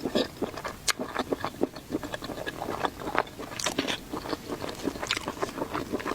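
Close-miked chewing and biting of a person eating seafood: a quick, irregular run of sharp mouth clicks and smacks.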